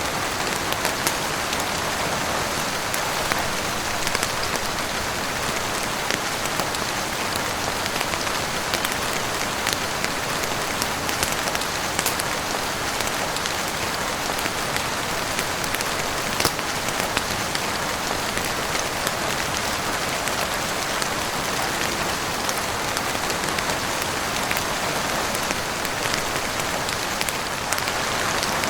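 Steady heavy rain falling on a roof and windows, an even wash of noise with scattered sharp clicks of individual drops or crackles through it.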